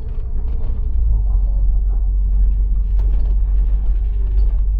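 Steady low rumble of a city bus running along the road, heard from inside the bus: engine and road noise.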